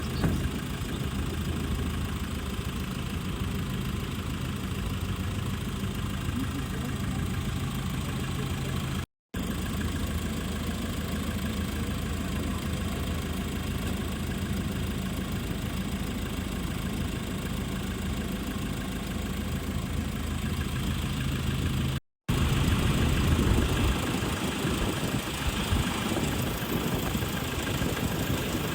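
Diesel engine of a Mitsubishi Fuso truck idling with a steady, even hum. The sound cuts out briefly twice, and after the second break it is slightly rougher and brighter.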